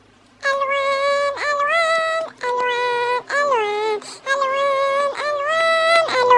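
Dancing cactus toy singing an Arabic children's song through its small speaker in a high, synthetic-sounding voice. The held notes start about half a second in, with short breaks between phrases.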